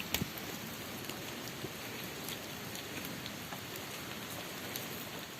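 Steady hiss with scattered light ticks and crackles, with a few sharper clicks about the first second.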